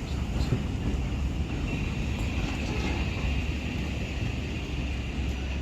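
Train running, a steady low rumble with a faint high hiss above it.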